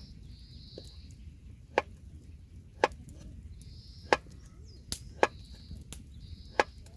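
Sharp chopping knocks of a blade striking wood, six strokes spaced unevenly about a second apart.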